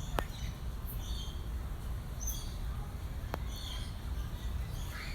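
Birds giving short, high chirps every second or so over a steady low rumble, with two sharp clicks about three seconds apart.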